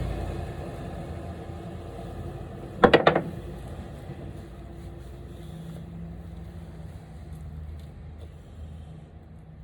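A quick cluster of three or four sharp knocks about three seconds in, over a low, steady hum that fades over the first few seconds.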